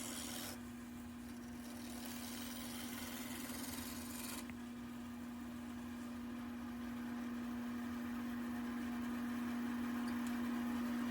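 Wood lathe running with a steady hum and a light hiss, growing slightly louder toward the end.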